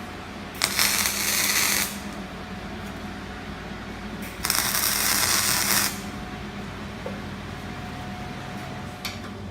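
Two MIG tack welds from a 300-amp Hobart MIG welder, each a crackling arc hiss lasting about a second and a half, the first about half a second in and the second a little past the midpoint. Each tack joins the 1-inch square-tube frame of the welding stand. A steady hum runs underneath.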